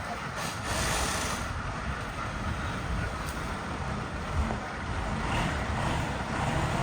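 Steady rumble and road or wind noise of a moving vehicle, with no single sharp event.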